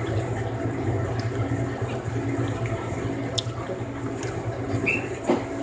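Steady water-like running noise with a low hum, with a couple of brief high chirps from small birds, one about three seconds in and a short peep near the end.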